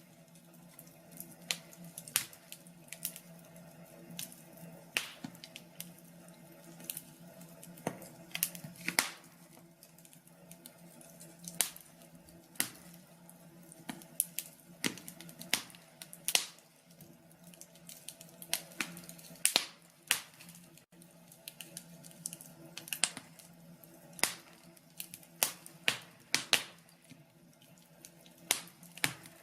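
Wood fire in a fireplace crackling, with irregular sharp pops and snaps, some loud, over a faint steady low background.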